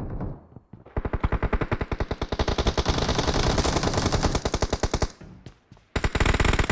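Automatic gunfire from a shooter video game: one long rapid burst of about four seconds starting about a second in, then another burst near the end.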